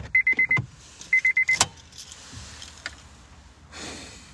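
Two quick runs of about five high electronic beeps each, in the first second and a half, then a sharp click. Near the end comes a short puff of breath as a hair is blown away.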